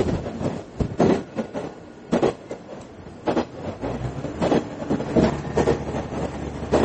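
Interior running sound of a JR Banetsu East Line diesel railcar: wheels knock over rail joints and points at irregular intervals, about one a second. A low, steady engine drone comes in about four seconds in.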